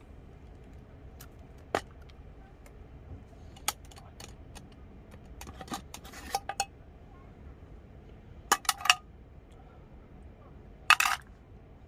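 Metal utensils clinking and scraping against metal cookware in scattered sharp clicks, with a quick run of clinks past the middle and the loudest cluster near the end.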